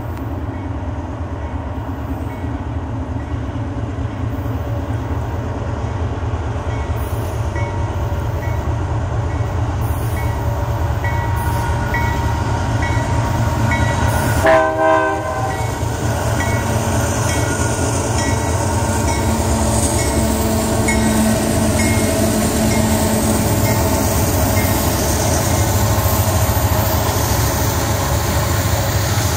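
Union Pacific freight train hauled by several diesel locomotives approaching and passing close by. The engine and wheel rumble grows steadily louder, and there is one short horn blast about halfway through.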